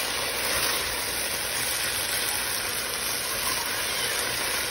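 Mixed vegetables sizzling steadily in a hot, oiled nonstick wok as they are stir-fried with a spatula.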